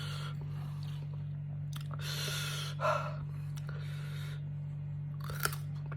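A person breathing and gasping hard through the mouth and nose while eating, with a short louder gasp about three seconds in and a few small mouth clicks near the end, over a steady low hum.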